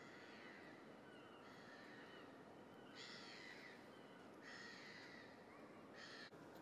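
Near silence with faint outdoor hiss, broken by four faint bird calls, each about a second long, spaced about a second and a half apart.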